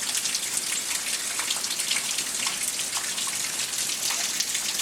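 Heavy rain falling steadily, a dense hiss speckled with the ticks of individual drops hitting and splashing.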